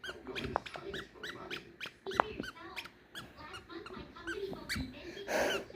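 A small monkey squeaking: a run of short, high chirps, several a second, rising and falling in pitch, with light clicks in between and a brief rush of noise near the end.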